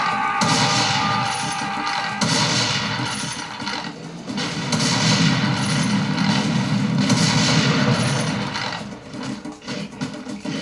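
Video game gunfire and explosions played through the Armaggeddon X-Bar 2 gaming soundbar, in loud dense surges that thin out near the end.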